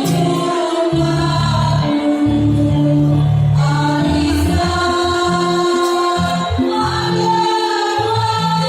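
Choir singing in long held chords, with new phrases starting about three and a half and seven seconds in.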